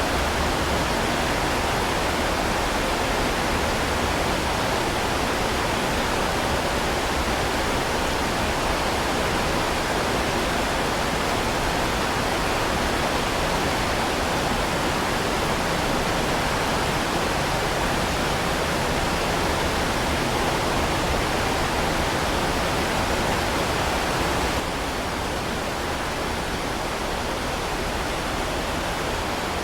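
Heavy rain falling steadily as a dense, even hiss. About 25 seconds in it drops slightly in level and loses some of its high end.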